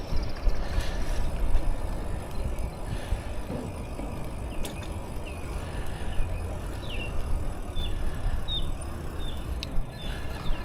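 Bicycle ride heard from a neck-mounted action camera: a steady low rumble of wind on the microphone and tyres on the path. In the second half come a run of short high chirps, about one every half second.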